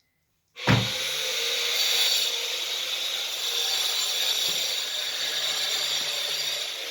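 A power tool starts abruptly about half a second in and runs steadily under load, a dense, hissy grinding-cutting noise with a faint steady hum beneath it.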